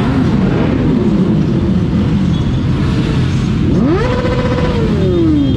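Yamaha R3's parallel-twin engine, with an aftermarket full-system exhaust, running at speed under steady wind and road noise. Just before four seconds in it revs sharply up, holds briefly, then the pitch falls slowly as the throttle rolls off.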